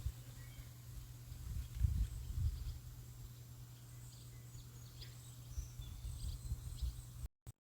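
Outdoor nature ambience: an uneven low rumble of wind on the microphone with faint, short bird chirps high above it, cutting off abruptly just before the end.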